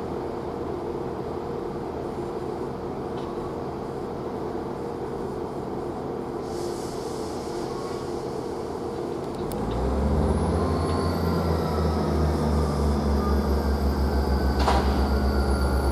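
Diesel multiple unit's underfloor diesel engines humming, then powering up about ten seconds in into a louder, low, evenly pulsing drone as the train moves off.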